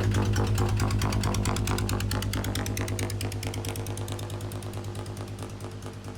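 A small engine running steadily with a fast, even beat, gradually growing fainter.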